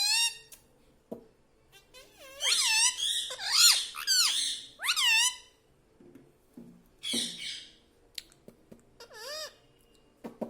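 Pet parrot giving a series of short, high-pitched calls, about seven in all, each bending up and down in pitch, with quiet gaps between them.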